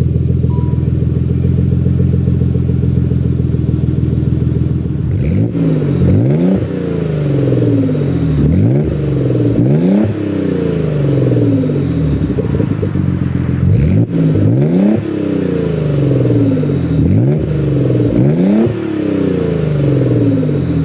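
Nissan 300ZX's twin-turbo V6 engine idling steadily, then revved again and again from about five seconds in, the pitch climbing and dropping back to idle with each blip of the throttle.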